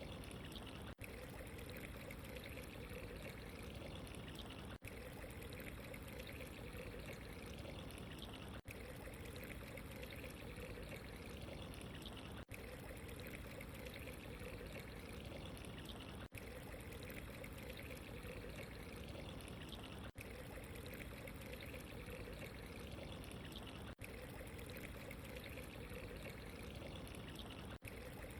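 Running water trickling and pouring steadily, with a very brief dip in the sound about every four seconds.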